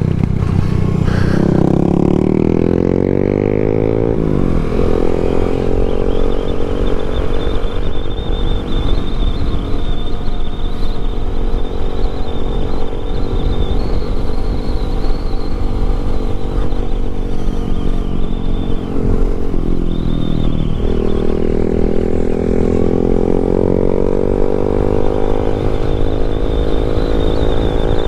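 Yamaha MT-07's parallel-twin engine on its stock exhaust, running while riding. The pitch climbs over the first few seconds, drops at a shift about four seconds in, and holds steady while cruising. It dips again around twenty seconds in, then climbs once more, with a steady low wind rumble underneath.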